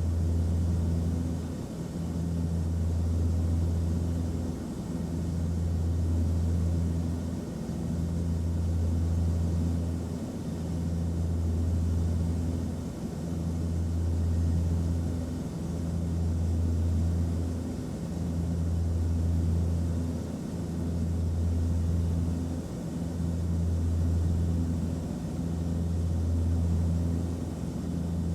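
Airplane cabin noise in flight: a steady low drone with a faint hiss above it, swelling and easing gently about every two and a half seconds.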